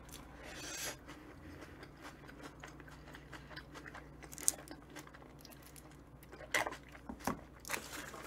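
A person biting into a soft sandwich and chewing it with quiet mouth sounds. There is a single sharp click about halfway through and a few short sharp sounds near the end.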